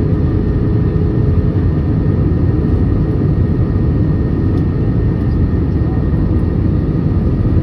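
Steady cabin noise inside a passenger airliner in flight: the even rush of the engines and airflow, low and constant, with a faint steady whine above it.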